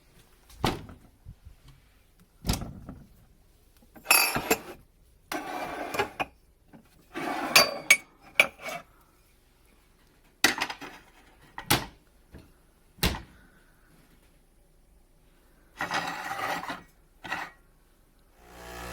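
Scattered knocks, clicks and short rustling handling noises, each a second or less, with quiet gaps between them.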